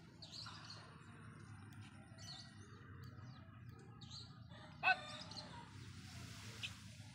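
Small birds chirping on and off, faint, over a low steady background noise. About five seconds in comes one short, sharp, louder pitched call.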